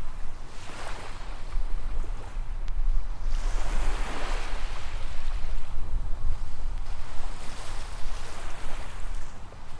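Small waves washing onto a sandy beach, the hiss swelling as a wave breaks about four seconds in, over a low rumble of wind on the microphone.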